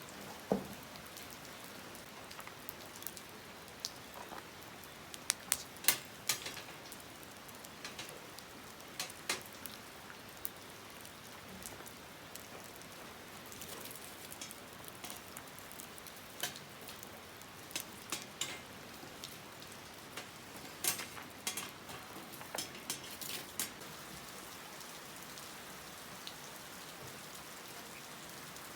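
Light, steady rain falling, with irregular sharp ticks scattered through it.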